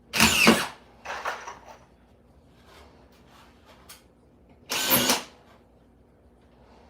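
A power drill run in three short bursts, the second quieter than the others.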